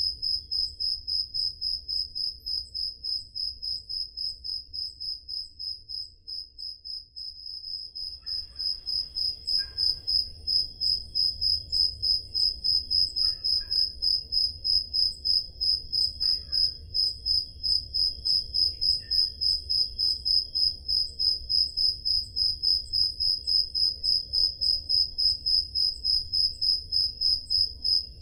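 Crickets chirping: a steady, high-pitched pulsed trill repeating about three times a second, with a slight dip in loudness about a third of the way in.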